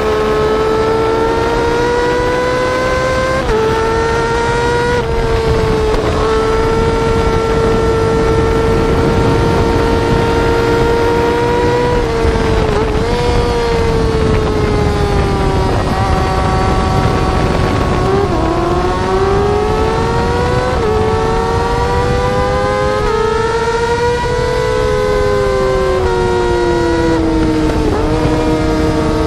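Yamaha R6 inline-four sportbike engine running at high revs through the gears. Its note climbs steadily and then drops suddenly with each upshift, several times over, and near the end it slides down as the bike slows.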